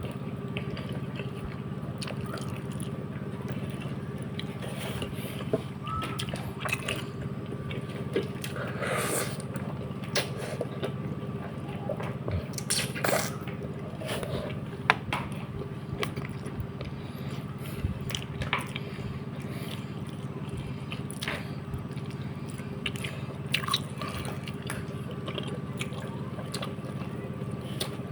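Wet eating sounds: scattered lip smacks, sucks and short clicks from someone eating a braised patin catfish head, over a steady low hum.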